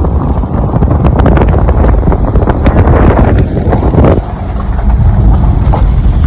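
Strong wind buffeting the microphone: a loud, deep rumble that eases for a moment about four seconds in.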